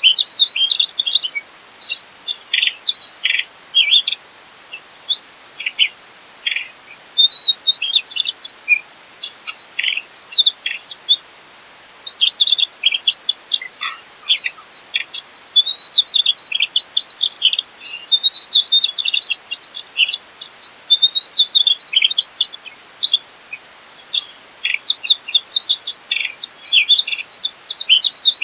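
Mugimaki flycatcher (sikatan mugimaki) singing vigorously: a continuous, rapid stream of high chirps and short trills with only brief pauses.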